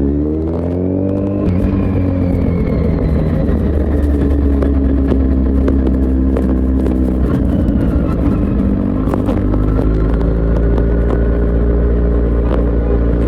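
Kawasaki Z900's inline-four engine through an Akrapovic full exhaust system, climbing in pitch under acceleration over the first second and a half, then running at a fairly steady speed.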